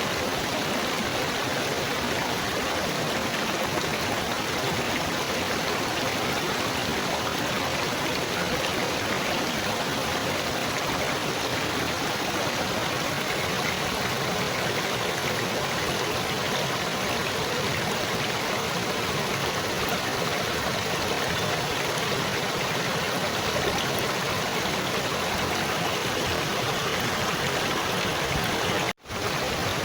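Steady babbling, trickling water, with no change in its flow, cutting out for an instant about a second before the end.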